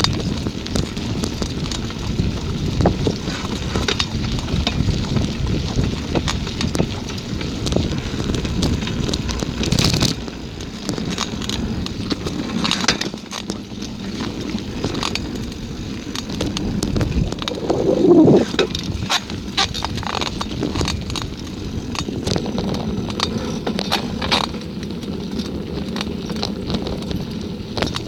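Bicycle being ridden over rough ground: a continuous rumble of the tyres rolling, with many scattered clicks and rattles, and a louder surge about eighteen seconds in.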